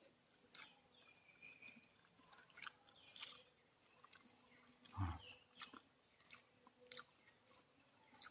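Quiet chewing and small crunches and mouth clicks of a person eating close to the microphone, with one louder thump about five seconds in.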